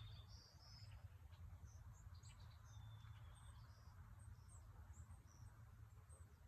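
Faint, scattered high chirps of small birds calling, over a low steady rumble.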